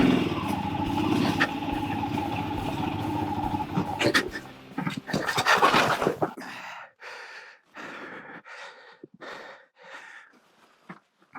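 Royal Enfield Himalayan's 411 cc single-cylinder engine labouring up a rocky climb, with a loud rough clatter of tyre and rocks between four and six seconds in. About six seconds in the engine stalls for lack of momentum. After that there is only the rider's hard, uneven breathing.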